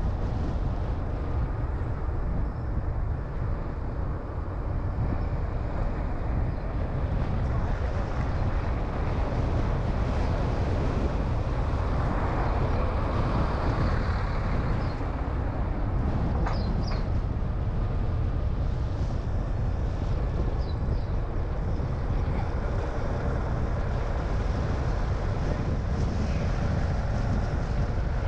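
A car being driven, with a steady low rumble of engine and tyre road noise; the noise swells briefly about halfway through.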